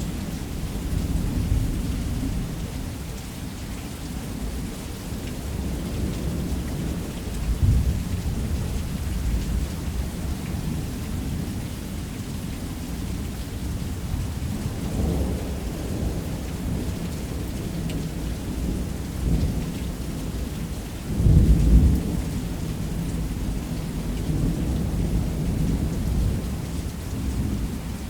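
Thunderstorm: rain falling steadily under continuous low rolling thunder. The thunder swells to a loud rumble about eight seconds in and rises again to its loudest about twenty-one seconds in.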